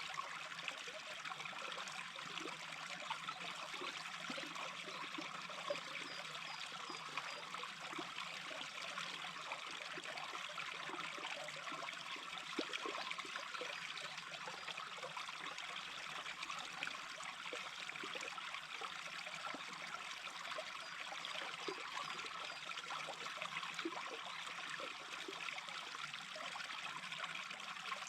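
A small brook babbling and trickling steadily over stones.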